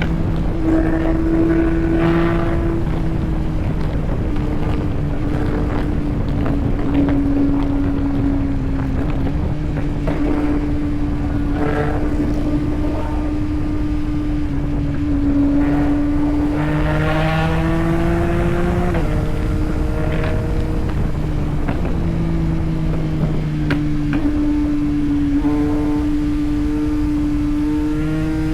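Yamaha MT-09 motorcycle's three-cylinder engine running steadily under way, with rushing noise from the ride; the engine note climbs briefly a few times as it accelerates, most clearly about two-thirds of the way in.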